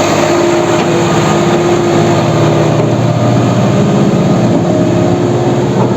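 Tractor's diesel engine running hard under load as the stuck tractor is driven out of the dug-out road, its note dropping lower about two to three seconds in.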